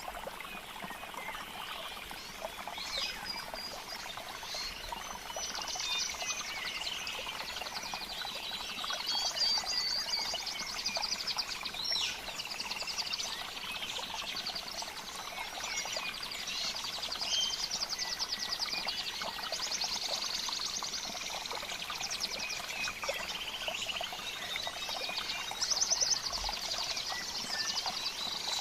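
Amazon rainforest ambience: many birds chirping and whistling over a steady trickle of running water. Several rapid, evenly pulsed trills from frogs or insects come and go, each lasting a second or two.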